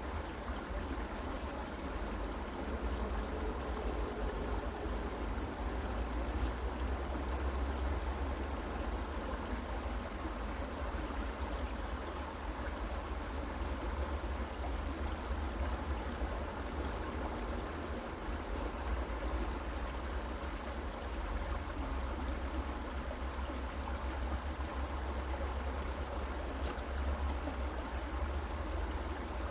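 Steady running water of a stream, a continuous even rush with a deep low rumble beneath it.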